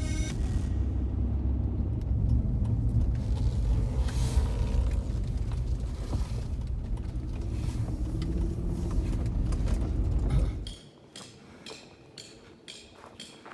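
A steady, loud low rumble that cuts off suddenly about ten and a half seconds in, giving way to quiet with a few light clicks and knocks.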